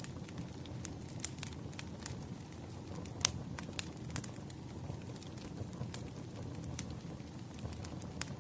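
Wood fire crackling: irregular sharp pops and snaps over a low, steady rumble of burning, the loudest pop a little over three seconds in.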